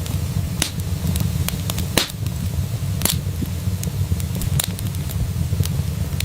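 Wood fire in a fireplace crackling: irregular sharp pops and snaps over a low steady rumble of the flames, with louder pops about two and three seconds in.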